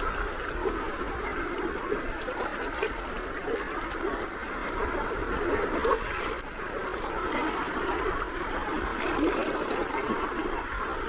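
Gentle sea waves lapping and splashing steadily at the water's edge.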